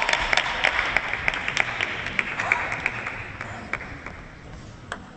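Arena audience applauding, the clapping gradually dying away over a few seconds.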